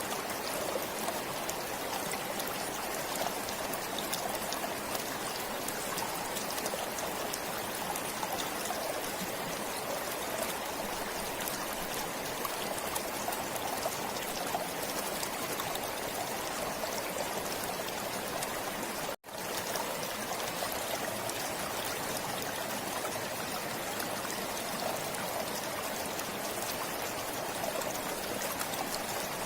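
Forest stream flowing steadily, water running and trickling. The sound cuts out for a split second about two-thirds of the way through, then resumes.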